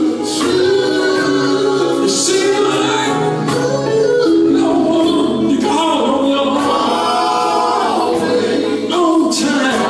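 Gospel group singing live, several voices in harmony, over a band with regular drum and cymbal strokes.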